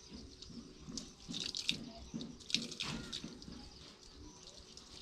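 Water splashing and dripping, louder in two short spells about a second and a half and two and a half seconds in.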